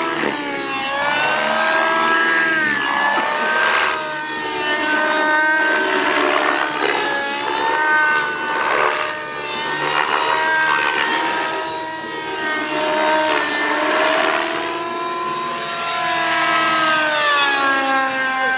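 Radio-controlled model helicopter flying, its motor and rotor noise rising and falling in pitch every couple of seconds as it manoeuvres.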